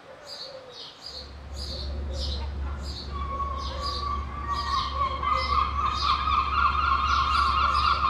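A bird chirping repeatedly, about two short falling chirps a second, over a low steady hum. From about three seconds in, a long, steady, whistle-like tone comes in and grows louder.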